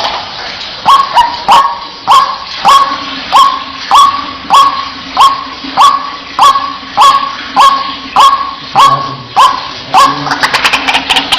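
White-breasted waterhen giving its loud repeated 'kwak' call, one note about every 0.6 seconds, each opening with a quick upward slide. Near the end it breaks into a busier jumble of calls, over a faint steady hum.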